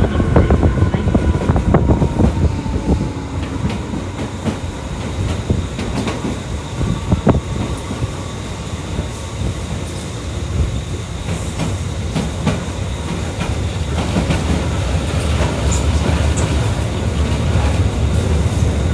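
Electric commuter train running at speed, heard from inside the passenger car: a steady low rumble of wheels on rail with scattered sharp clicks from rail joints and points.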